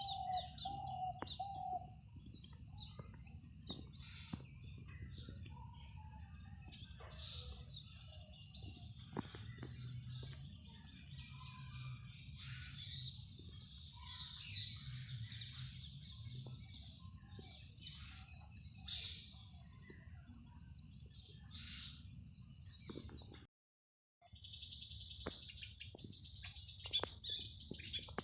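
Small birds chirping and calling in short, varied notes over a steady high-pitched insect-like drone and a low background rumble. The sound drops out briefly about 23 seconds in, then the chirping resumes.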